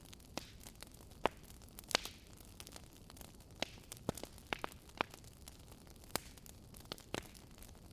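Wood fire in a fireplace crackling: irregular sharp pops and snaps from the burning logs over a faint steady hiss.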